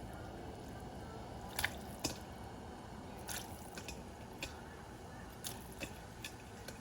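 Pot of water at a rolling boil bubbling steadily as chicken feet are blanched in it, with a few light clicks and knocks of utensils scattered through.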